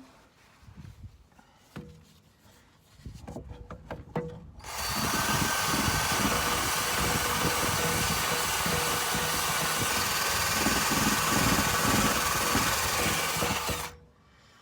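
Electric drill spinning a rust-stripping wheel against the car's underbody steel, scouring off surface rust. A few light knocks and scrapes come first; about five seconds in the drill starts and runs steadily for about nine seconds, then stops abruptly.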